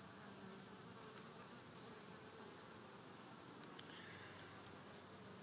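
Honey bees buzzing around an opened hive, a faint, steady hum.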